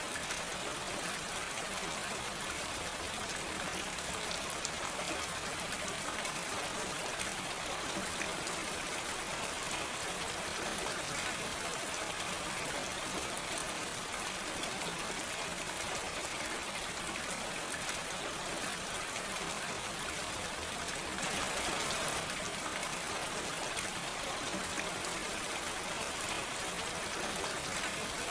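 Steady, gentle rain falling without thunder: an even hiss of many fine drops, swelling slightly for a moment about three quarters of the way through.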